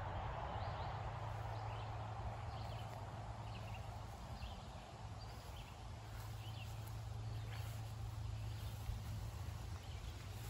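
Outdoor ambience: birds chirping in short, scattered calls over a steady low hum.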